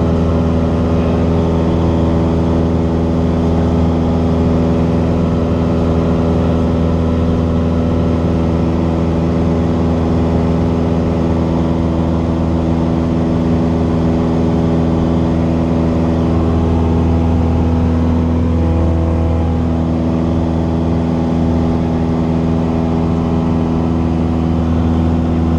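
Cessna 172's piston engine and propeller running at a steady, unchanging power, a loud continuous drone.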